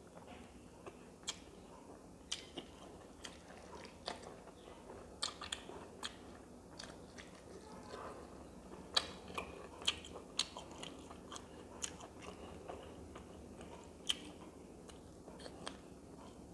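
A person chewing and smacking their lips while eating rice and fish curry by hand, with irregular wet mouth clicks. The loudest smacks come about nine to ten and a half seconds in and again near fourteen seconds.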